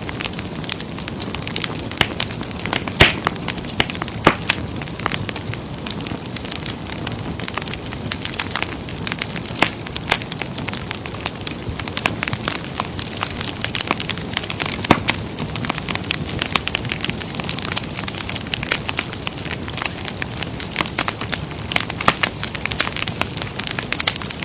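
Wood fire burning in a fireplace: steady crackling with frequent sharp pops and snaps, a few louder pops scattered through.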